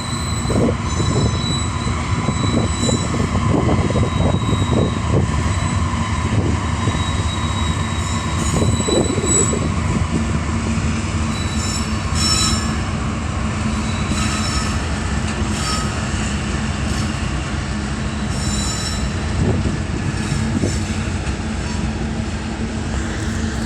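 Coal train rolling past at close range: a steady heavy rumble of the cars, with thin high-pitched squealing from the steel wheels on the rails.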